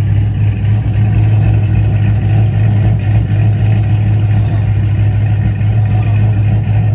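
A loud, steady low hum of an engine running at a constant speed, with no revving or change in pitch.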